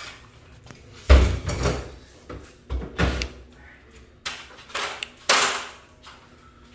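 A garage door and its hardware being handled: a run of about six knocks and rattles, the loudest a heavy thump about a second in.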